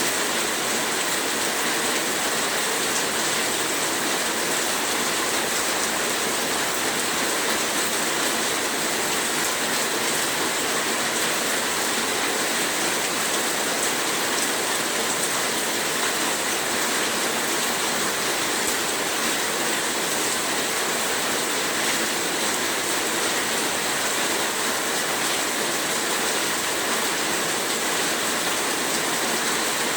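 Heavy rain falling steadily, a dense even hiss of countless drops with no breaks or changes.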